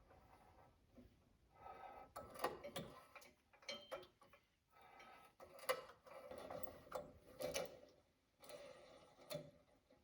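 Light hand-work sounds: scattered sharp clicks and short scraping or rubbing sounds, a few louder knocks among them.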